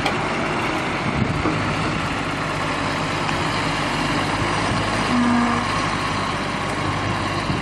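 Tractor engine running steadily under load while working a stuck tractor free in a muddy field.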